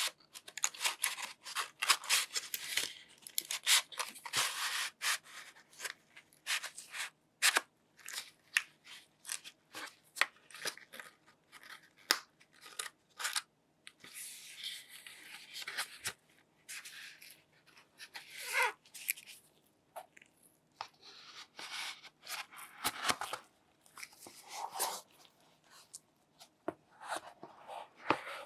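Hands handling the packaging of a new Samsung Galaxy S24 Ultra: many short clicks and taps, with several longer stretches of rustling and a couple of brief squeaks.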